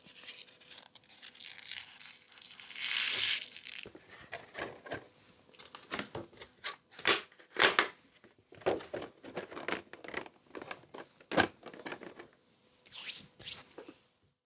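Packaging being torn and crinkled while seeds are handled, with a longer tearing stretch a few seconds in, then a run of short rustles and small knocks.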